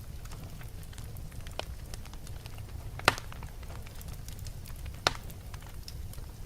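Wood fire burning in a fireplace: a steady low rumble under constant small crackles, with two loud sharp pops, about three and five seconds in.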